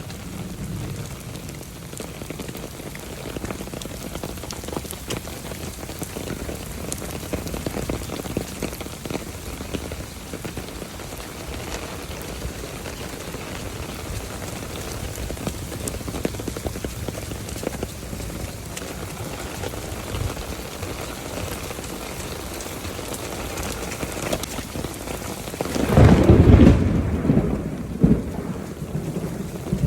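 Steady rain falling during a thunderstorm, with a loud low rumble for a couple of seconds near the end.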